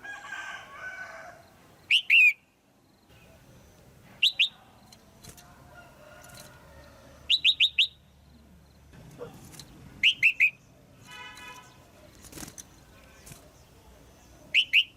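Female red-whiskered bulbul calling: short, sharp chirps in quick clusters of two to four, repeated every two to three seconds.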